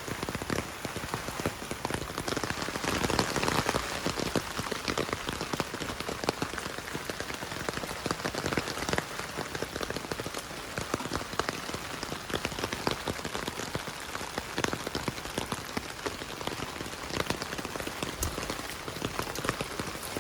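Steady rain falling, with many close drops ticking sharply; it is a little heavier about two to four seconds in.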